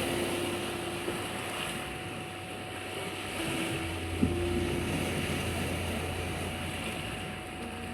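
Sea waves washing in over a steady high 741 Hz tone, with soft held music notes. A low hum swells in about four seconds in.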